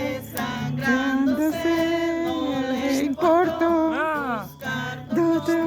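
A voice singing long held notes over backing music, with a swooping downward slide about four seconds in.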